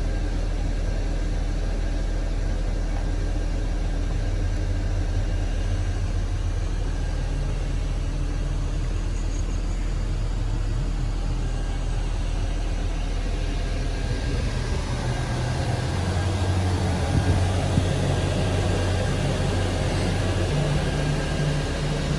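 Steady low drone of an idling engine, with more clatter and movement noise in the second half.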